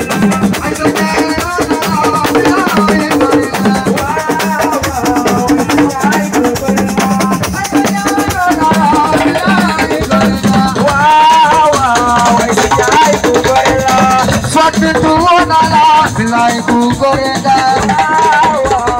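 Live assiko band music: a fast, dense shaker and drum rhythm over a repeating bass line, with a wavering melodic line above, which is stronger in the second half.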